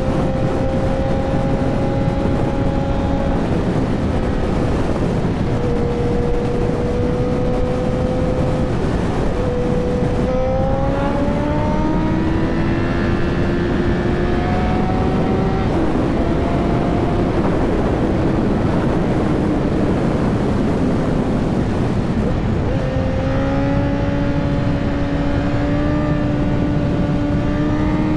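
Honda CBR1000's inline-four engine pulling under way, its note climbing slowly over a steady rush of noise. The pitch changes suddenly about 10, 16 and 23 seconds in.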